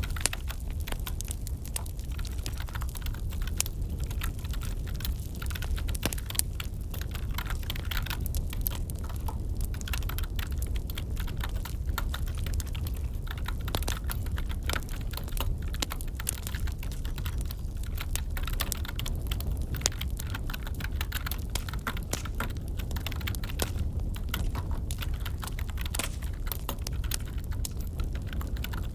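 Computer keyboard typing, irregular key clicks without pause, over a crackling wood fire with a steady low rumble.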